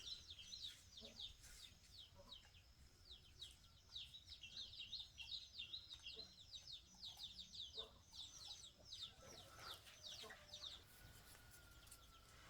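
Faint, rapid high chirping of birds, many short downward-sliding chirps close together, thinning out and stopping about eleven seconds in.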